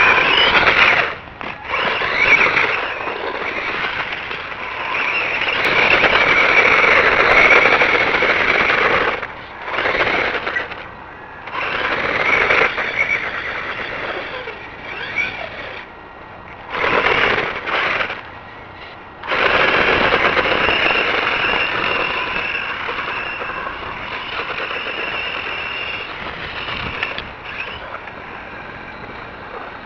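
Brushed electric motor and gear drive of a 1/12-scale 2WD RC monster truck whining in bursts as the throttle is applied and let off, dropping away several times in the middle and running on, gradually quieter, toward the end.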